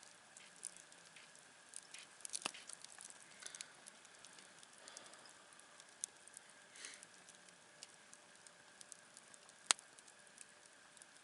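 Campfire crackling, with scattered sharp pops and snaps from the burning wood: a flurry of them a couple of seconds in and one loud pop near the end.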